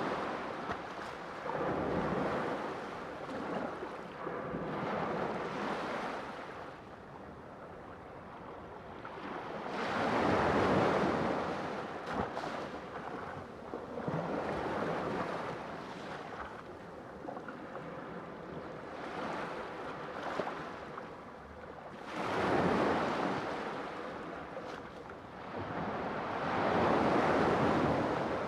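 Sea waves breaking and washing in, a steady rush that swells and ebbs every few seconds. Three larger waves stand out: about ten seconds in, at about twenty-two seconds, and near the end.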